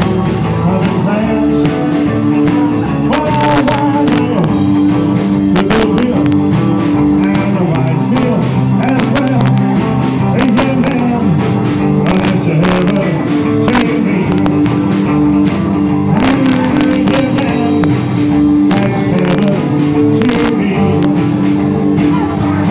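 Live rock and roll band playing, led by guitar, with sharp drum hits keeping a steady beat.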